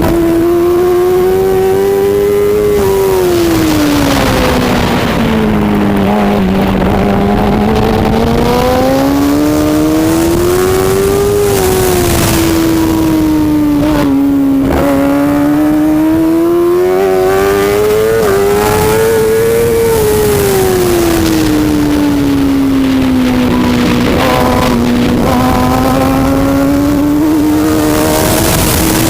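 Loud racing motorcycle engine running continuously, its pitch rising and falling smoothly every few seconds as the revs change.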